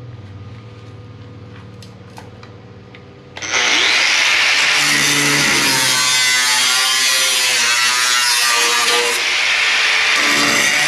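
A power cutting tool starts about three and a half seconds in and runs steadily and loudly, cutting into the steel body sheet metal around an old door-hinge box. Before it starts there is only a low hum and a few faint clicks.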